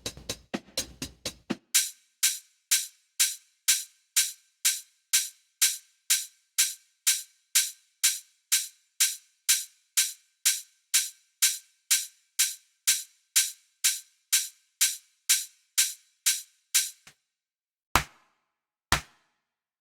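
Electronic drum-machine loop: the full beat with bass briefly, then a soloed hi-hat ticking evenly about twice a second. Near the end the hats stop and two single hits with a low thump follow about a second apart.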